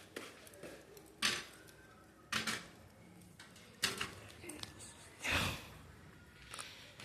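Campfire crackling, with four loud sharp pops and cracks spread about a second apart; the last one, about five seconds in, is a longer rush of noise.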